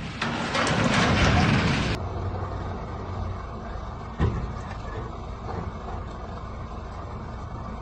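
Loud broad noise for about two seconds, then, after an abrupt change, a steady low vehicle rumble with one sharp knock about four seconds in.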